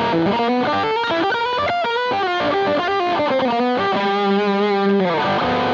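Intro jingle of electric guitar with distortion, playing a quick melodic riff that settles into long held notes in the second half.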